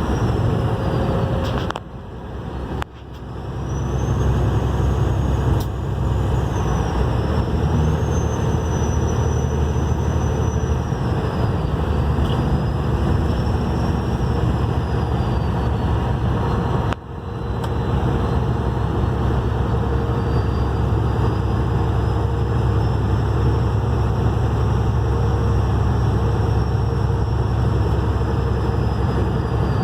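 Vehicle engine with compound turbochargers under load, its high turbo whistle rising and falling over a steady low engine rumble. The engine and whistle drop out sharply about two seconds in and again just before the midpoint, then build back up.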